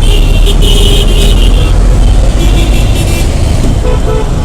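Motorcycle moving slowly in heavy city traffic: a loud, steady low rumble of engine and road noise, with several short vehicle horn honks in the first second and a half and again around the three-second mark.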